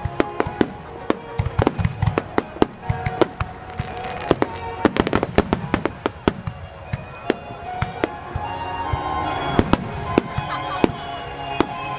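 Aerial firework shells bursting in a fast barrage, a string of sharp bangs and crackles one after another. Music plays underneath, its steady tones coming through more in the second half.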